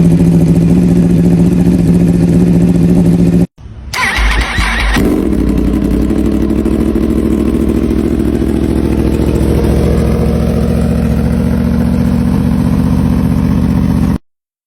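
A motorcycle engine running steadily, then cut off abruptly. After a brief silence, a second superbike is started cold: a short burst of starter cranking and rattle as it catches about four seconds in, then it settles into a steady fast idle until the sound stops just before the end.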